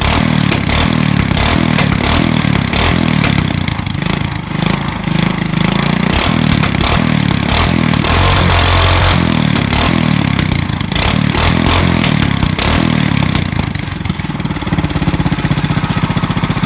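A 2002 Volkswagen Jetta's 2.0-litre four-cylinder petrol engine running loud through a straight-pipe exhaust, partly warmed up after a cold start. Its pitch rises and falls a few times.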